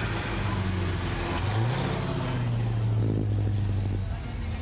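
Muscle-car engine, a fourth-generation Chevrolet Camaro, running at low speed as the car rolls slowly past, its note stepping up in pitch about a second and a half in as the throttle opens a little.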